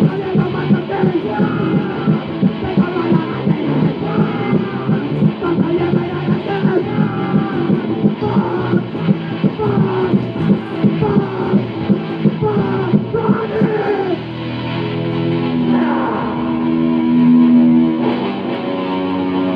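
Punk rock band recording with electric guitar: a fast, steady driving rhythm, giving way about fourteen seconds in to long held chords ringing out.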